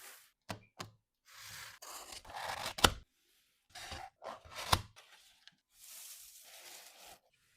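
Close-up packaging handling: two short clicks, then three stretches of rustling, tearing-like noise, the first two each ending in a sharp click or snap.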